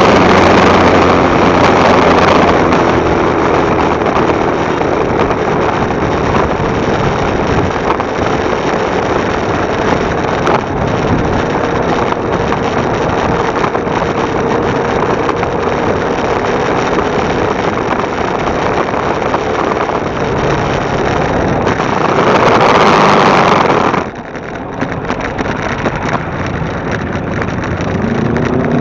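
Motorcycle engine running while riding, with heavy wind rush on the bike-mounted camera's microphone. The sound drops suddenly about three-quarters of the way through, and the engine note starts to rise near the end.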